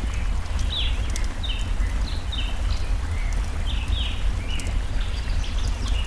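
Layered forest ambience: small birds chirping in short repeated notes several times a second over the steady rush of a stream, with faint sharp crackles from a campfire.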